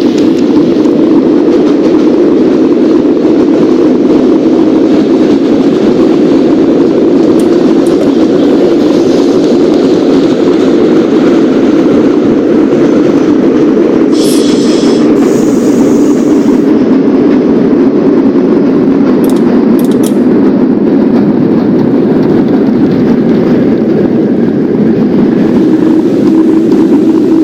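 Subway train running along the track with a loud, steady rumble, and a brief high-pitched squeal about halfway through.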